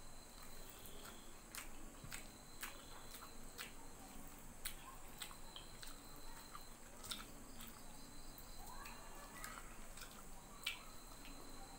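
Soft eating sounds of someone chewing rice and curry eaten by hand: quiet wet mouth noises with scattered, irregular small clicks and smacks.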